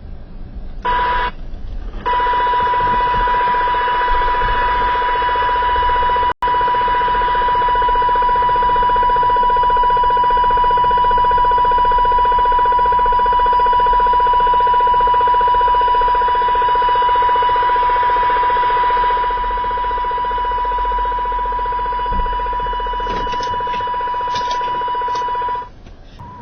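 CB radio receiving strong RF interference on channel 29: a loud, steady electronic tone with a buzzing, rattling edge, coming through the radio's speaker. It starts about a second in, cuts out briefly twice, and stops just before the end. The uploader traces it to a neighbour's house and suspects a plant grow light.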